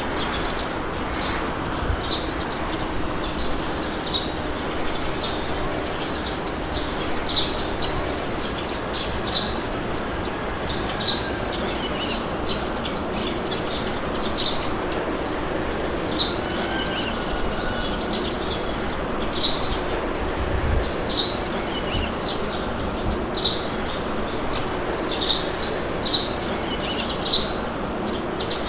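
Small birds chirping in short, scattered calls over a steady rush of wind.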